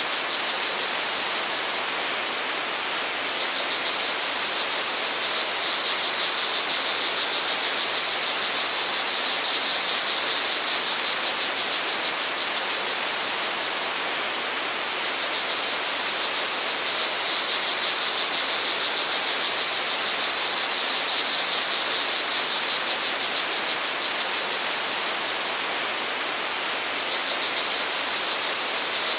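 Steady rush of flowing water, with crickets trilling high and fast in long stretches that stop and start again a few times.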